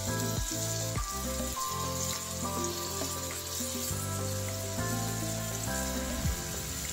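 Raw chicken breast pieces sizzling as they are laid into hot butter and olive oil in a frying pan: a steady frying hiss. Background music with sustained notes plays along with it.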